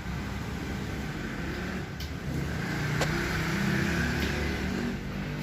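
A few sharp clicks and knocks as the folding electric bike's parts are handled, over a steady low rumble of background noise.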